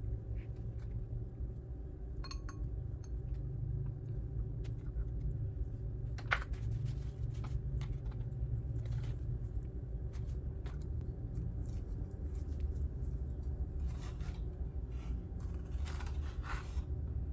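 A steady low hum with scattered light clicks and short scrapes, the sound of food and utensils being handled during kitchen preparation.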